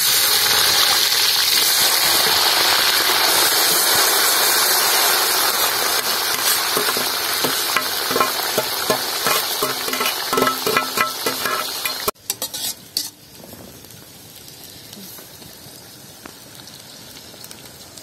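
Chillies frying in hot coconut oil, a loud, steady sizzle, while a spoon stirs and clicks against the pan. About twelve seconds in, the sizzle drops suddenly to a faint hiss.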